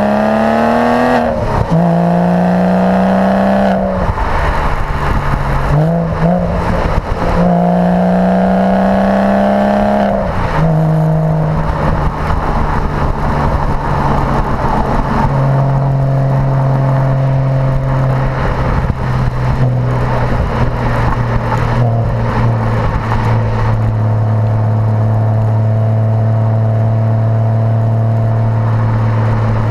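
Porsche Boxster engine through its performance sports exhaust, accelerating with the pitch rising through gears, with upshifts at about one, four and ten seconds. After that it settles into steady cruising revs that ease lower.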